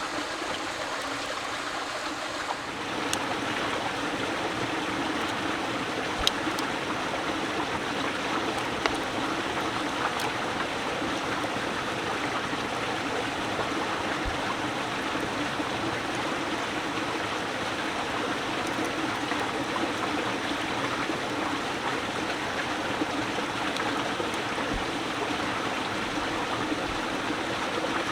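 Steady rushing of flowing water, getting louder about three seconds in, with a few faint clicks over it.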